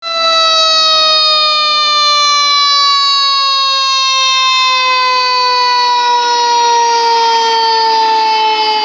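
Fire truck siren sounding loudly as one tone that falls slowly and steadily in pitch, like a mechanical siren winding down.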